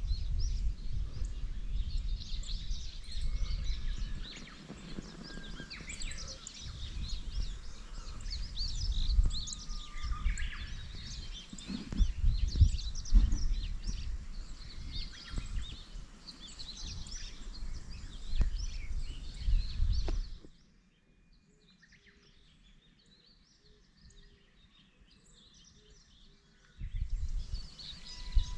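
Several small birds chirping and singing over a low, uneven rumble. Everything drops to near silence about twenty seconds in, and the rumble and birds return near the end.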